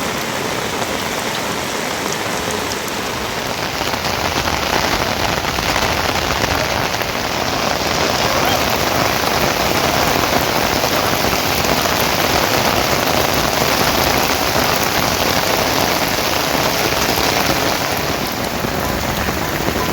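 Rain falling steadily, a dense even patter that grows a little louder about four seconds in.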